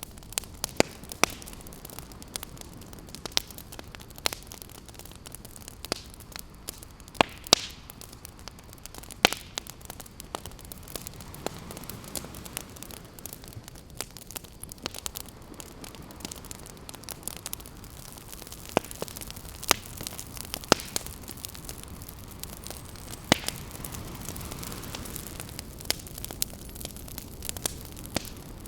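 Wood campfire crackling, with frequent sharp pops and snaps at irregular intervals. Beneath it is a steady soft hiss of ocean waves that swells gently twice.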